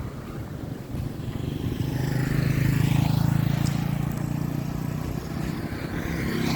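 A motor vehicle's engine running close by on the road, growing louder about a second in and staying strong to near the end, with tyre and road hiss.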